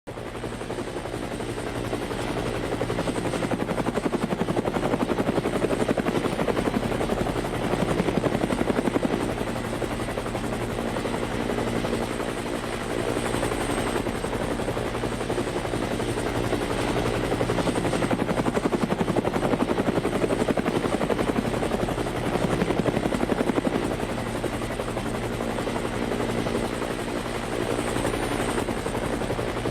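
Helicopter flying, its rotor beating in a steady rapid pulse with the engine running, the sound swelling and easing gently as it moves.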